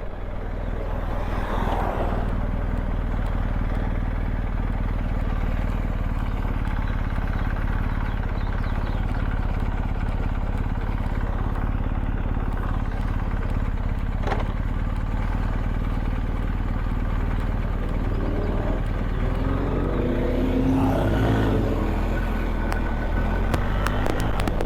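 BMW R1250GS Adventure's boxer-twin engine running steadily on the move, with wind rushing over the microphone. Near the end the engine note rises and falls.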